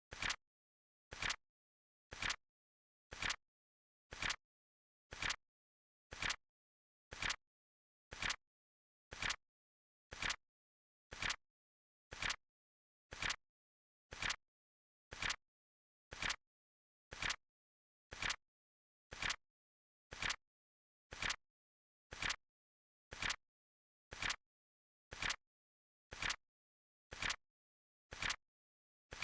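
Flip clock timer sound effect: a short, sharp click about once a second, evenly spaced and steady, with silence between the clicks.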